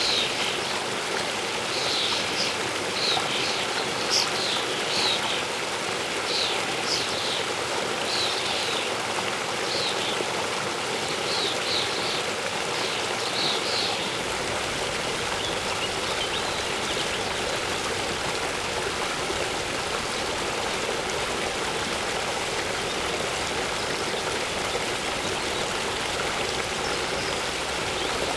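Steady rushing water of a waterfall. Birds chirp in short repeated notes over it, stopping about halfway through.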